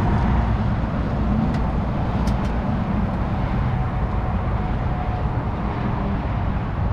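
Steady low rumble of a vehicle in motion, with a few faint clicks about two seconds in.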